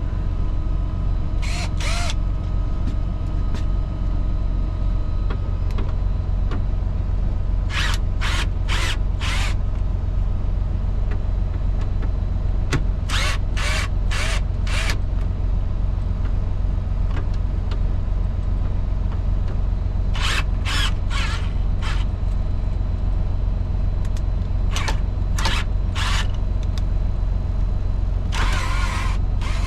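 Semi truck's diesel engine idling steadily, with groups of two to five short, sharp rasping bursts from work on the cab fittings every few seconds, a denser run of them near the end.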